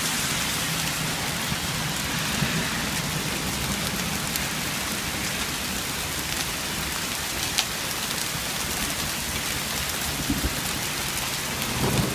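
Heavy hail mixed with rain falling steadily on the ground, a dense hiss with sharp clicks of single hailstones striking now and then. The hailstones are about half to three-quarters of an inch across.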